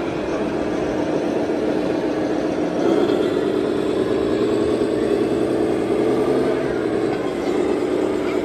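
Motor of a radio-controlled toy construction vehicle running steadily with a buzzing drone, a little louder from about three seconds in.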